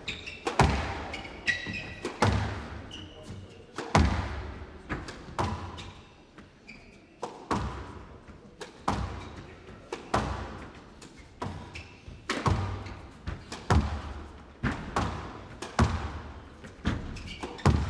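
A squash rally: the ball struck by rackets and smacking off the walls, a sharp knock about every second with an echo, and a few short squeaks of shoes on the court floor.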